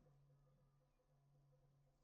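Near silence: faint steady low hum.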